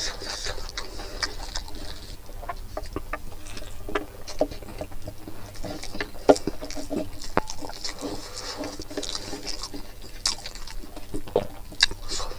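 Wet chewing and lip-smacking of pork and rice, with fingers squishing the food: many irregular short smacks and clicks.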